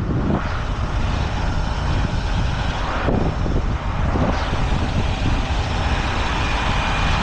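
Heavy diesel tow truck engine running steadily, a deep rumble with a faint high whine over it.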